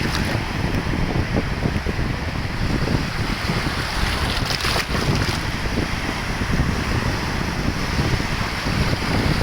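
Wind buffeting the microphone, a constant low rumble, over a steady rushing noise.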